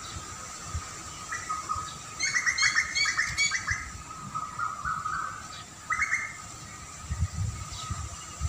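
A small bird calls with a quick run of about eight chirps around two seconds in and one short chirp near six seconds, over steady faint high tones. Low rumbles come in near the end.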